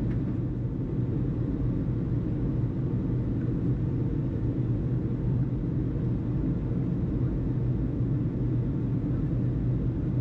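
Steady low rumble of airport background noise, even in level throughout.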